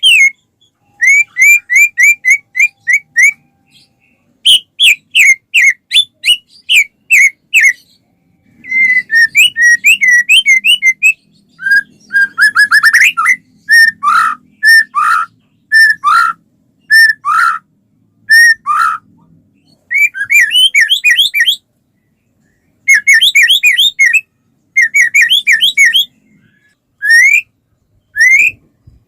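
White-rumped shama (murai batu) singing in phrases of rapid, repeated whistled notes that sweep in pitch, with short pauses between the phrases.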